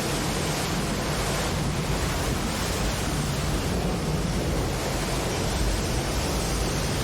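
Floodwater rushing through a breached dam, a steady, even rush of water.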